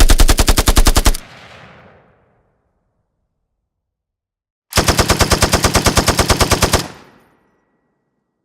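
Two bursts of rapid automatic machine-gun fire, about three and a half seconds apart. The first is shorter and trails off in an echo; the second lasts about two seconds.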